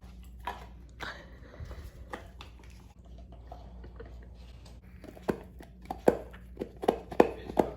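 Doberman puppy chewing a hard chew bone, biting down in scattered crunches that become a quick run of sharp chomps in the second half.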